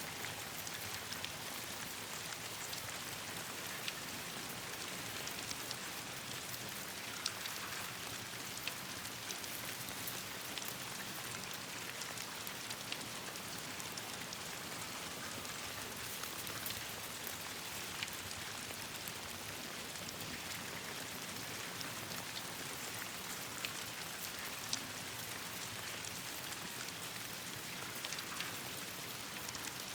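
Steady rain falling and pattering on surfaces, with scattered sharp ticks and pops.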